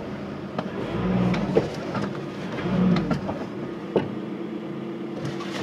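Car engine running, with a few sharp clicks.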